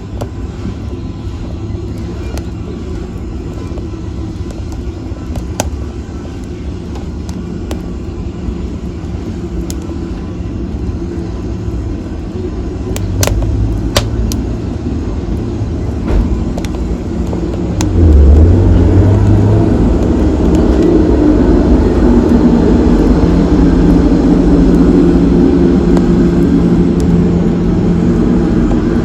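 Wood fire burning with a low, steady roar and scattered sharp crackles and pops. It swells louder about two-thirds of the way through.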